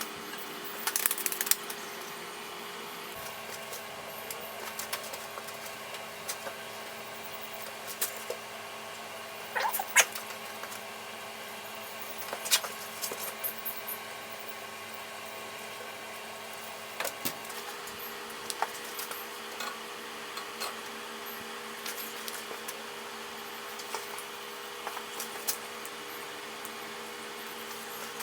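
Steady machine hum, with scattered sharp clicks and light knocks over it: a short cluster about a second in, the loudest knock about ten seconds in, and a few more spread through the rest.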